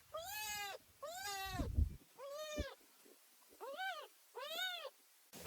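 A cat meowing repeatedly: five separate meows, each rising and then falling in pitch.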